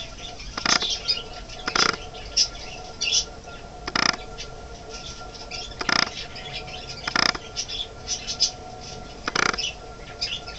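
Pet budgerigars and other parakeets chattering with many quick, high chirps, broken by about six louder short, rasping bursts every second or two.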